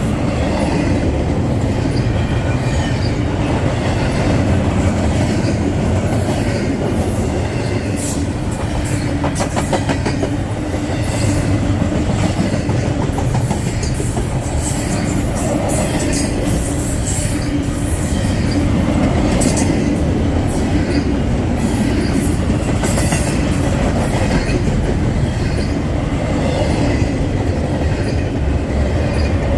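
Freight train rolling past close by, a steady loud rumble with rapid clicking of wheels over rail joints.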